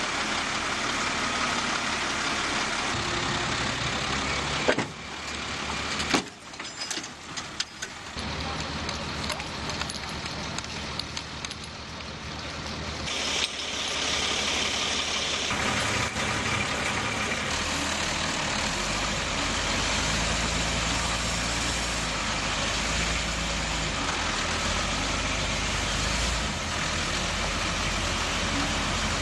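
Heavy vehicle engines running, with two sharp knocks about five and six seconds in and a few abrupt changes in the engine sound.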